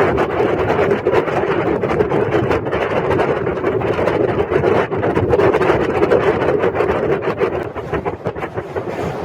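Running noise of a 12 series passenger coach heard on board a moving train: a loud, steady rolling rumble with quick clicks all through, easing slightly near the end.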